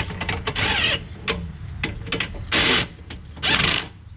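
Power tool running a nut down on the traction-bar bolt in three short bursts, with small metal clicks between them.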